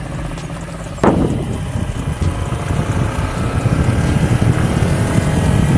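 Airliner noise: a sudden loud onset about a second in with a brief falling whine, then a loud, steady rumble.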